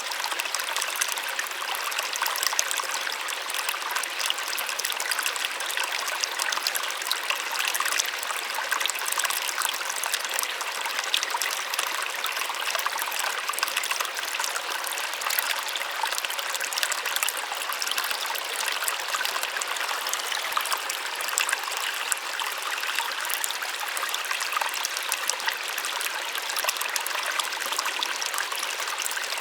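Small waterfall: water splashing and trickling steadily, a light high-pitched rush with little low rumble.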